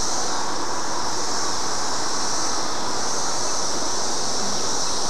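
Dense chorus of 17-year periodical cicadas, a steady unbroken high drone.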